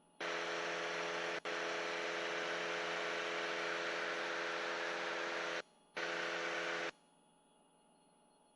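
Cockpit noise of a light airplane, a steady hiss with a low engine hum, let through the headset intercom as a microphone opens. It switches on about a quarter-second in, cuts out abruptly after about five seconds, and comes back for about another second.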